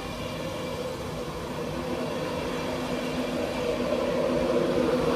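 Train approaching on the main line, its steady hum and rail noise growing louder.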